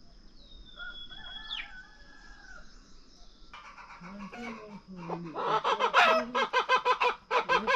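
Chickens clucking in quick runs of short calls, building up and loudest in the second half. A faint steady high insect drone runs underneath, with a gliding bird call in the first two seconds.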